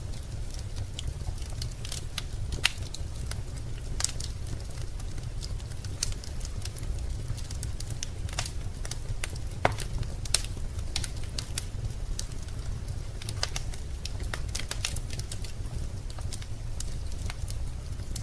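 Wood fire crackling in a fireplace: irregular sharp pops and snaps over a steady low rumble, with a few louder pops about 3 and 10 seconds in.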